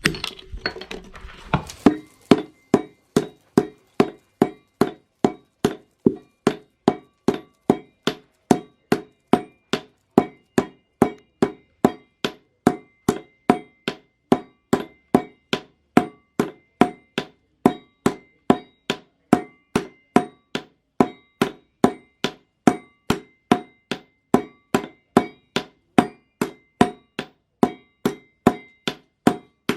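Hammer striking hot steel on an anvil in a steady rhythm, about two blows a second, each with a short metallic ring: chainsaw-bar steel being forged into a cleaver. A short rushing noise comes before the first blows.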